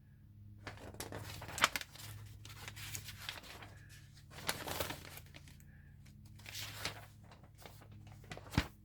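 Paper pages of a service manual being turned and rustled: several rustling swishes, with a sharp snap of paper near the end.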